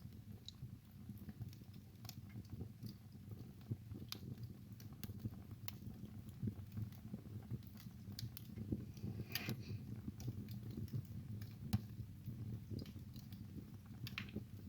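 Wood fire burning in a fireplace: irregular crackling and popping over a low steady rumble of the flames, with a brief cluster of louder pops about nine seconds in and again near the end.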